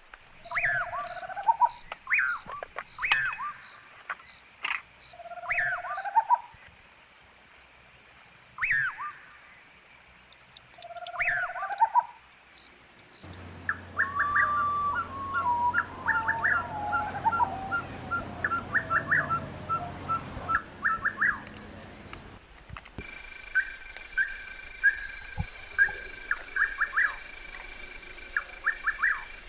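Wild birds calling on a riverside. First comes a call repeated every couple of seconds, a quick downward sweep ending in a lower note. About 13 s in it changes abruptly to a rapid run of short notes that falls in pitch, and about 23 s in to short chirps over a steady high drone.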